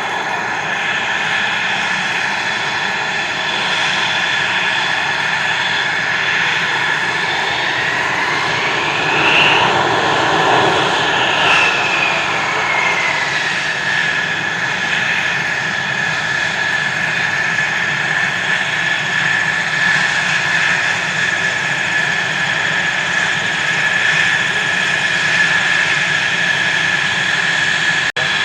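Jet aircraft engine running with a steady high whine over a rumble. About eight seconds in the sound swells, its pitch rising and then falling over a few seconds.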